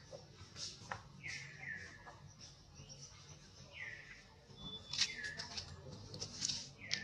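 A bird repeats a short, falling call, often two in quick succession, every second or two. Sharper chirps and clicks grow louder in the second half.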